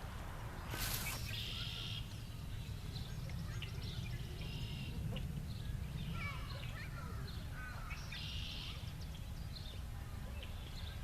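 Several birds calling with short chirps and whistled notes, including two longer buzzy trills, one early and one near the end, over a steady low rumble. A brief rustling burst comes about a second in.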